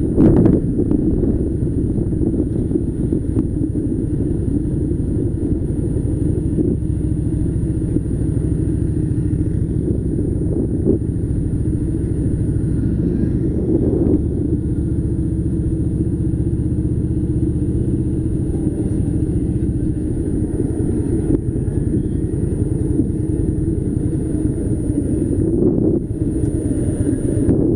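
Harley-Davidson Softail Slim's V-twin engine running steadily while the motorcycle is ridden.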